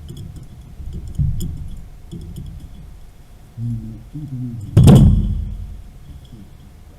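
Scattered knocks from work on water piping, then one loud sudden strike about five seconds in that rings on and fades over about a second.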